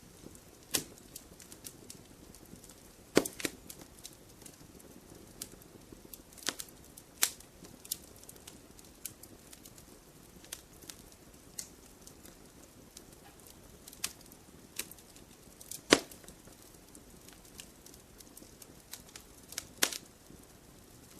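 Wood campfire crackling: irregular sharp pops and snaps of burning wood over a soft low hiss, with a few louder pops about 3, 16 and 20 seconds in.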